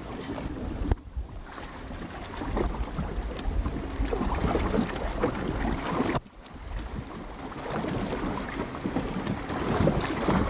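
Motorboat running on the water, its low rumble mixed with wind buffeting the microphone. The sound drops sharply twice, about a second in and about six seconds in.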